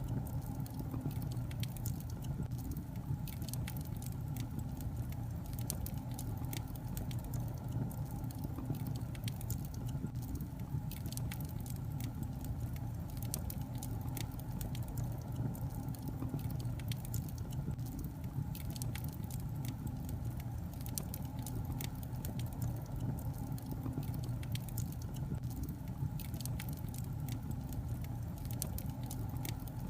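Wood logs burning in a fireplace: constant irregular crackling and snapping over a steady low hum of the fire.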